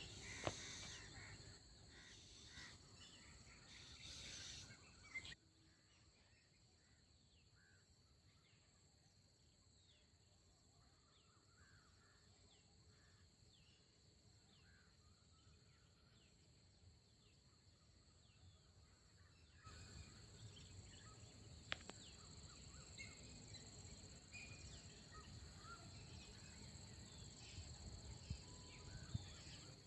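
Faint rural ambience: insects trilling steadily in a high pitch with a regular pulsing chirp about once a second, and small birds giving scattered short chirps. The level drops abruptly about five seconds in and rises again about two-thirds of the way through.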